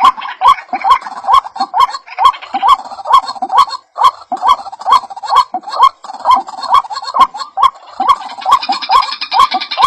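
White-breasted waterhen (ruak-ruak) calling: a short, upward-bending croaking note repeated about twice a second, each with a sharp click at its start. A second, higher chattering call joins near the end.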